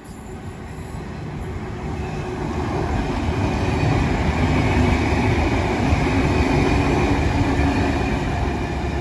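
A train running, its noise building over the first few seconds and then holding steady.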